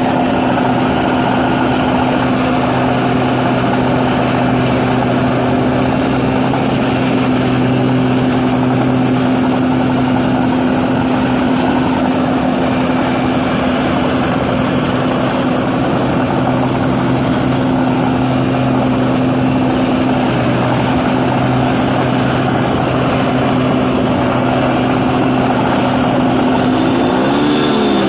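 New Holland 8060 combine harvester running steadily while harvesting rice, a constant loud engine and machinery drone with a steady low hum. Near the end a few short sounds glide up and down in pitch over the drone.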